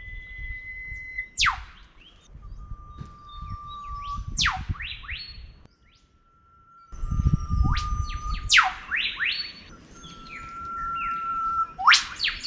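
Eastern whipbirds calling: long, steady whistled notes, each ending in a sharp whip-crack, answered at once by a few short notes. The call comes three or four times, with a low rumble underneath.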